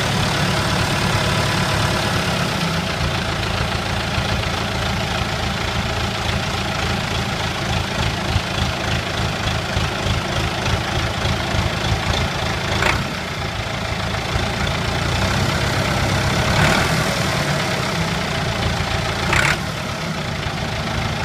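Massey Ferguson 290 tractor's four-cylinder diesel engine running steadily at about idle, with a few brief sharp noises over it in the second half.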